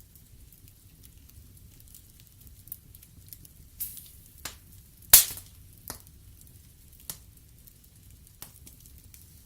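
Wood fire burning in a fireplace: logs crackling with scattered sharp pops over a low steady rumble, the loudest pop about five seconds in.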